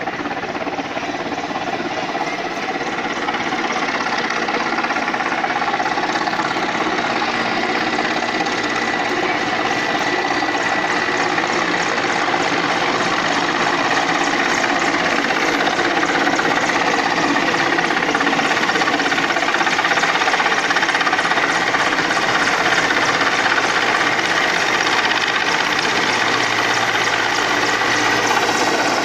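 Helicopter turbine engine and rotor blades running, a steady chopping noise with a high whine, growing gradually louder as the helicopter comes in to land.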